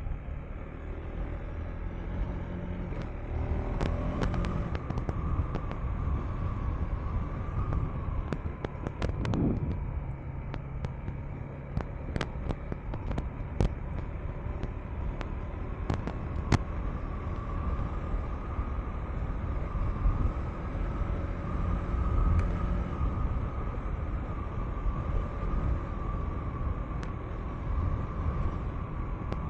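KTM 390 Enduro R's single-cylinder engine running as the dirt bike rides a rough, sandy dirt road, its pitch shifting a few times, over a steady low rumble. Scattered sharp clicks and knocks come through as the bike goes over the rough ground.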